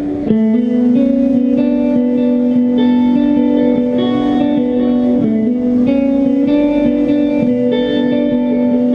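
Melodic hardcore band playing live without vocals: a passage led by ringing electric guitar notes that change every second or so.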